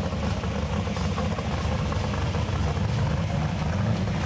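Drag-race Chevelle's engine idling at a steady low rumble, not revved.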